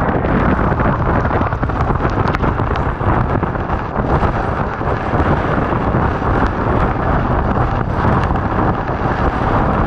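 Strong wind buffeting the microphone: a loud, steady rumbling rush of gusts.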